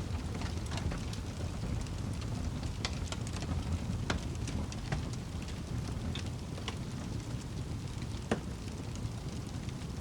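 Wood fire burning in a fireplace: a steady low rumble of the flames with scattered sharp crackles and pops, the loudest a little after eight seconds in.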